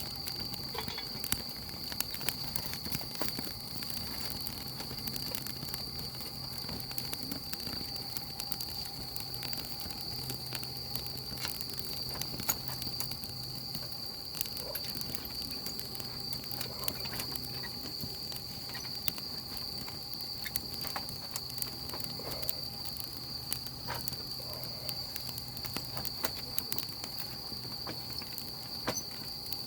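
Burning firewood crackling, with frequent irregular sharp pops and snaps over a soft hiss. A steady high-pitched tone runs underneath.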